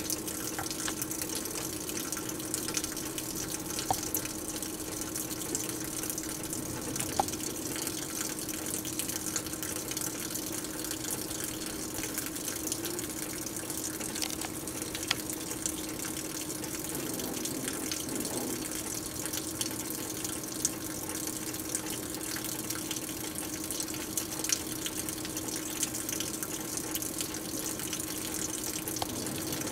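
Heavy rain falling steadily, with many small drop impacts and occasional louder drips.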